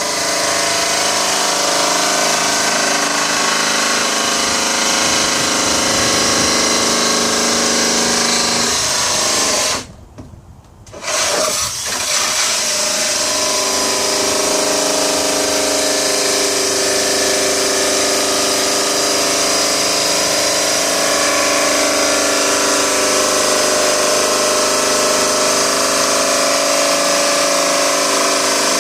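Handheld electric power tool running steadily while cutting. It stops for about a second about ten seconds in, then starts again and runs on with its pitch a little changed.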